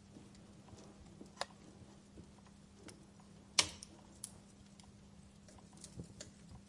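Wood fire in a stone fireplace crackling: scattered small snaps and pops, with one sharper pop about three and a half seconds in.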